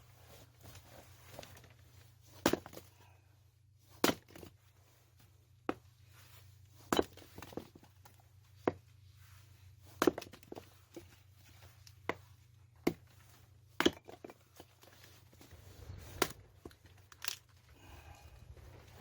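Firewood being split with an axe: about a dozen sharp, separate chopping strikes, spaced irregularly a second or two apart.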